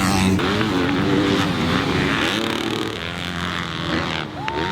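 Several motocross bikes revving around the track, their engine pitch rising and falling as they accelerate and shift.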